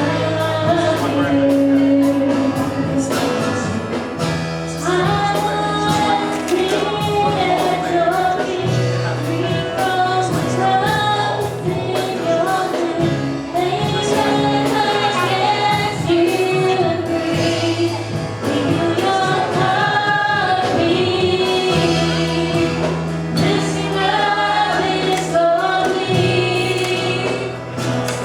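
Gospel choir singing with band accompaniment: steady bass notes and a regular beat under the voices.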